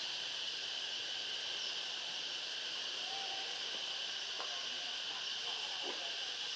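Steady high-pitched insect chorus, a continuous even buzz, with a brief faint low call about three seconds in and a couple of faint ticks after it.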